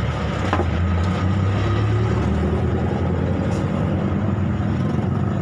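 Steady low rumble of engine-like background noise.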